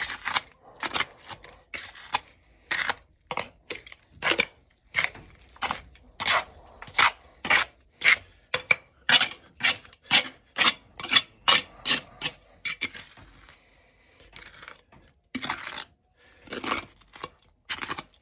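A metal hand tool scraping and digging dirt out of a hole in a concrete floor, in quick, sharp strokes about twice a second. There is a short pause about two-thirds of the way through.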